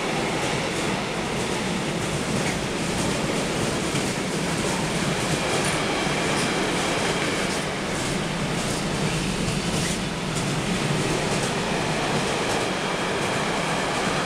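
A train running along the tracks: steady wheel-on-rail noise, with faint clicks of wheels over rail joints.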